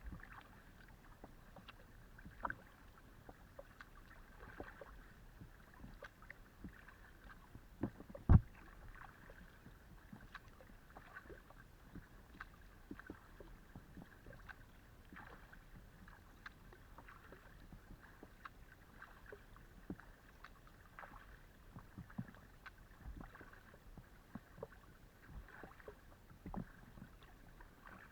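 Paddling a Decathlon Itiwit X500 kayak: the paddle dipping and water splashing and dripping in an irregular patter, with one sharp knock about eight seconds in.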